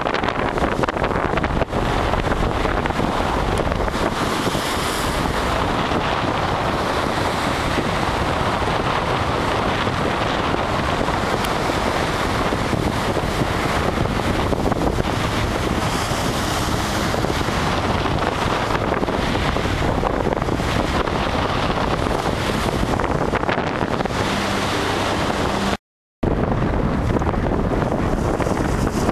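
Strong wind buffeting the microphone over surf breaking on a beach, a loud, steady rush of noise. It cuts out completely for about half a second near the end.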